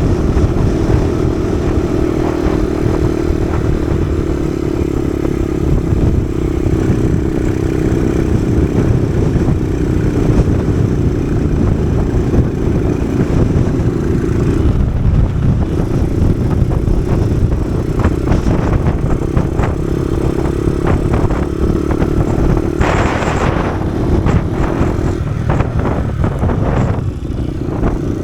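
Kawasaki KSR110's small single-cylinder four-stroke engine running under way, with heavy wind buffeting on the microphone in strong wind. The engine note drops away briefly twice, around the middle and again near the end, and a short loud hiss comes about 23 seconds in.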